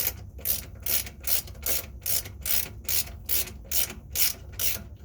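Ratchet socket wrench clicking in short, even strokes, about two a second, as it runs a replacement bolt into the washing machine.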